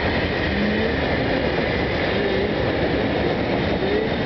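Heavy freight train of coal hopper wagons rolling past: a steady rumble of wheels on rail, with short squeals and creaks from the wagons every second or so.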